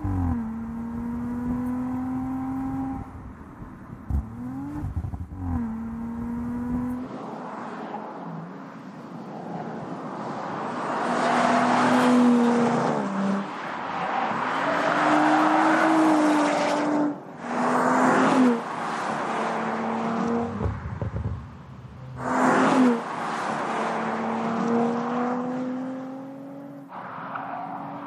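Audi RS4 Avant's 2.9 TFSI twin-turbo V6 being driven hard: the engine note climbs and drops back at several gear changes, with loud rushing stretches under full throttle.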